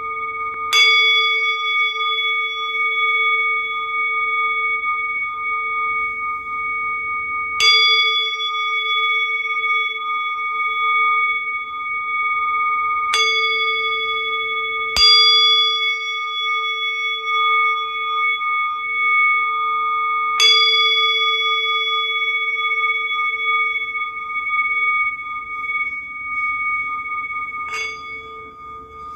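Singing bowl struck six times at intervals of a few seconds, each strike renewing a long, steady ring of several overtones that waver slightly and never die away between strikes.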